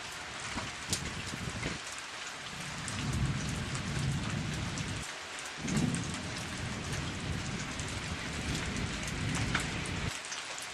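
Heavy rain pouring down, a dense hiss with scattered sharp drop impacts. Underneath, a low rumble comes and goes, stopping abruptly twice.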